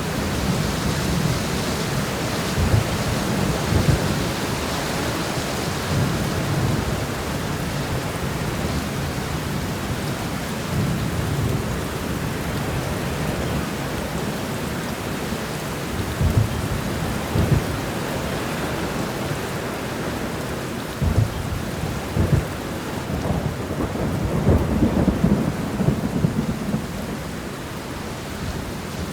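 Steady rain shower falling, a constant hiss, with short low thumps or rumbles now and then, in small clusters.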